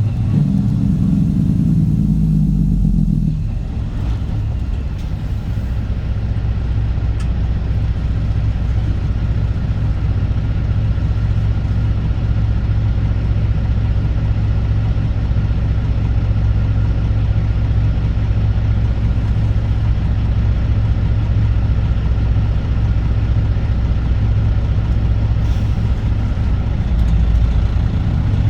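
Straight-piped Cat C15 Acert diesel of a Kenworth W900 running steadily on the road with a deep, low drone. It eases off briefly about three seconds in, then carries on evenly.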